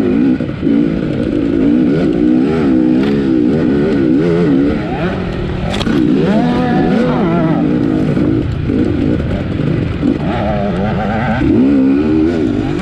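A 250cc motocross bike's engine, heard from the rider's point of view, revving up and down constantly as the throttle is worked around a race track, with a longer climb in revs about six seconds in.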